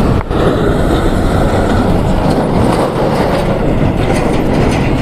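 Hero Splendor 100cc motorcycle under way: its single-cylinder four-stroke engine running under a loud, steady rush of wind and road noise.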